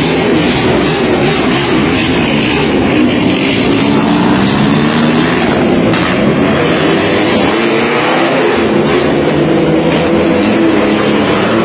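Racing car engines running hard on a circuit, their pitch rising and falling with the revs.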